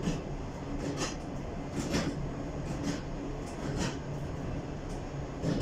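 Moving passenger train heard from inside its rear car: a steady rumble from the running gear, with sharp wheel clicks on the rails about once a second.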